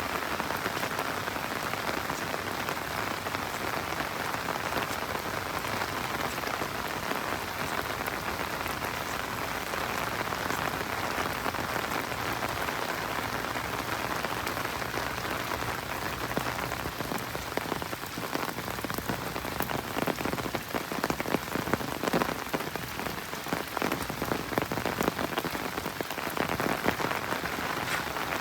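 Steady rain falling, a dense even patter, with heavier, sharper drops ticking close by through the second half.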